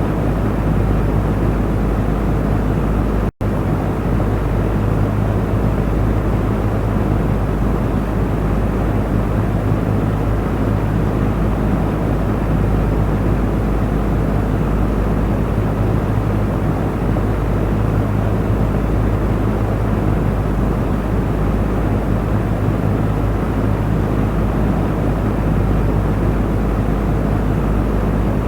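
Electric fan running steadily: a continuous whoosh of moving air over a low motor hum. It cuts out for an instant about three seconds in, then carries on unchanged.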